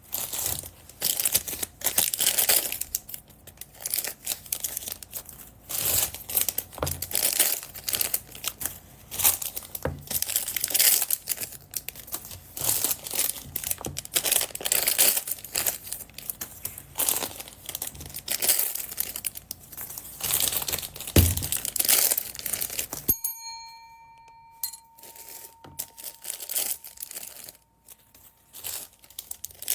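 Plastic packaging bags crinkling and being torn open, with dense rustling and quick crackles. About two-thirds of the way through, a short ringing chime sounds, followed by a few light clicks.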